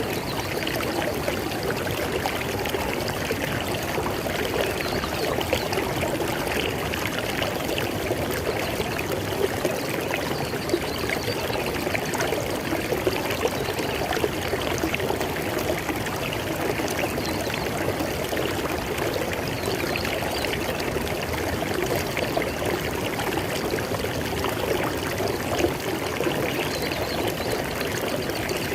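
River water flowing in a steady, dense rush with continuous fine splashing and burbling.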